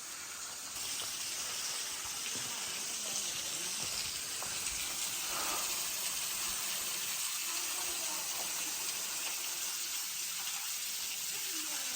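Waterfall rushing steadily, growing a little louder about a second in.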